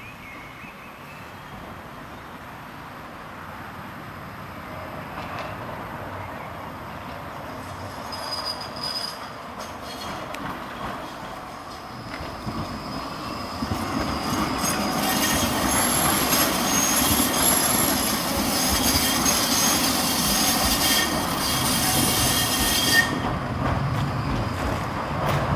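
A tram approaching and growing steadily louder, its steel wheels squealing on the rails. The shrill squeal comes in from about eight seconds in, is strongest in the second half, and cuts off suddenly a couple of seconds before the end.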